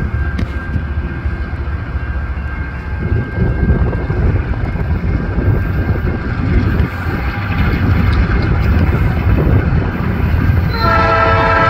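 Diesel freight locomotive approaching with a steady low rumble that grows slightly louder. Near the end the multi-note air horn starts sounding one long chord, the warning blown at a whistle post for a crossing ahead.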